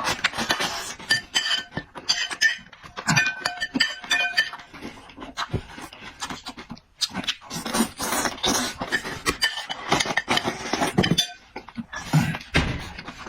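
Close-miked eating: wet chewing, smacking and slurping of pork and noodles, with irregular clinks of utensils against dishes.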